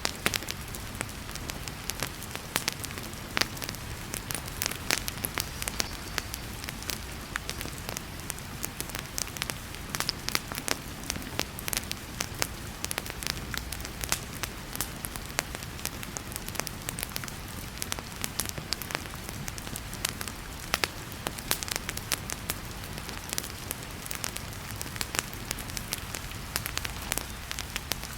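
Wood fire crackling in a fireplace, with frequent sharp pops and snaps over a steady hiss of heavy rain.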